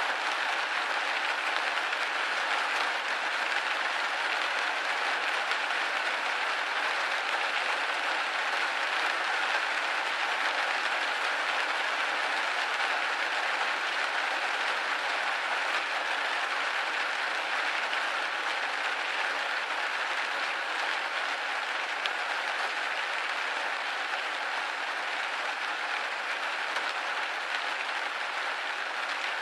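Steady rain pattering on a window pane, a dense even hiss of drops with no thunder or low rumble.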